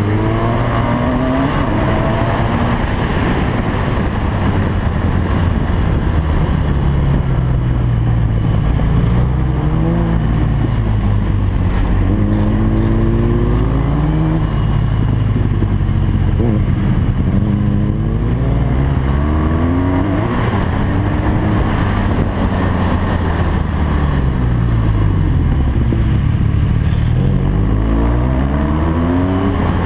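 BMW R 1200 GS LC's water-cooled boxer twin running hard, its revs climbing and dropping back again and again as the bike accelerates and shifts around the track.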